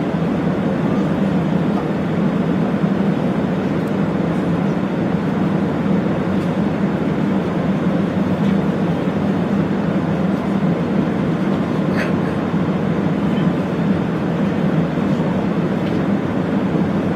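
Steady engine and airflow noise inside the cabin of an Airbus A380, a constant low hum with one faint click about twelve seconds in.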